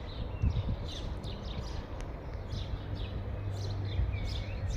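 Small birds chirping repeatedly in short notes and brief whistles, over a steady low rumble.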